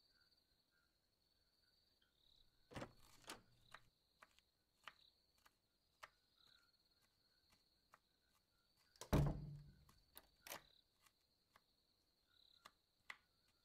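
Crickets chirping steadily in a quiet room, with a few soft knocks and a single louder thump about nine seconds in as a wooden door is shut, followed about a second later by a smaller knock from the latch.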